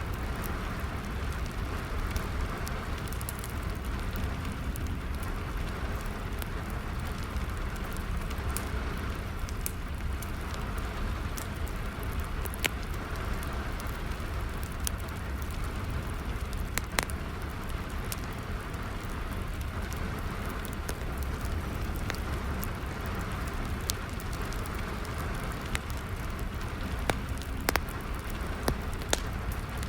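Steady rain falling, mixed with a wood fire crackling: sharp pops and snaps every second or so over the even hiss of the rain.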